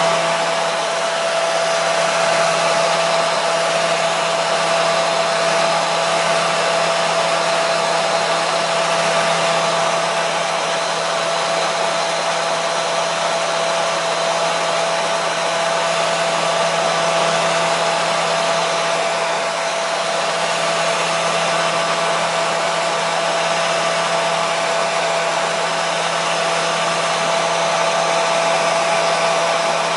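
Hair dryer running continuously with a steady rush of air and a constant motor hum.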